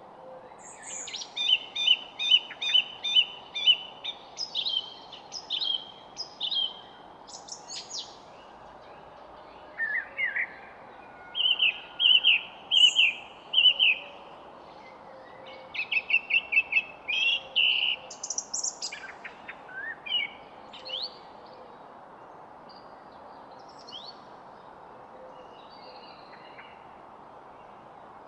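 Songbirds singing in quick phrases of rapid repeated high notes, busy for most of the first twenty seconds, then only a few faint scattered chirps, over a steady background hiss.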